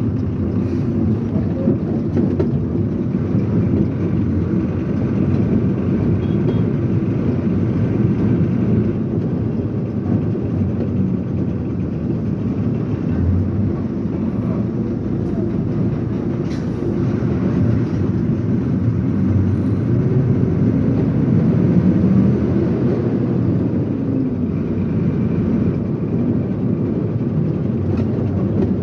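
Lorry under way: a steady low rumble of engine and road noise that holds even throughout.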